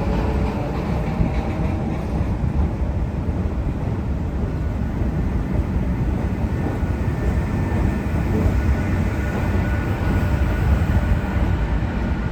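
Metro train running on the track, a steady rumble of wheels on rail with a faint whine above it.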